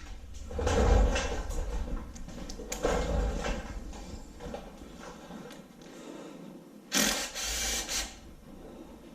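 Hand tools and metal engine parts being handled, with irregular rubbing and clinking as a socket and ratchet are put to work on the oil pump bolts; a louder scraping noise about seven seconds in lasts about a second.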